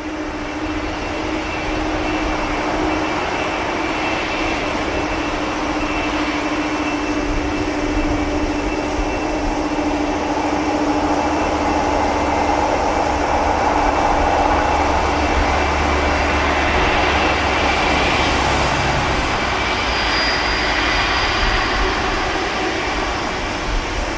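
Boeing 747-400 jet engines running at takeoff power: a loud, steady rush of jet noise over a deep rumble, with a faint steady tone in the first half.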